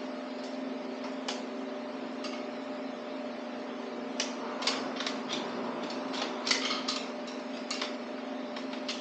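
Light metallic clicks and clinks of tools and engine parts being handled during an engine teardown, sparse at first and coming thicker from about four seconds in, over a steady hum.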